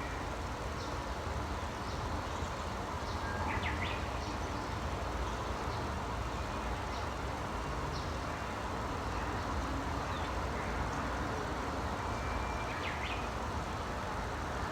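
Wild birds giving scattered short chirps, a few clustered calls about a third of the way in and again near the end, over a steady low rumbling background noise.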